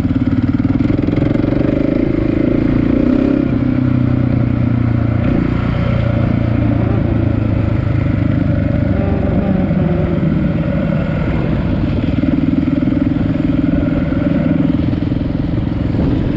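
Dirt bike engine running under way, its pitch rising and falling a few times as the throttle changes.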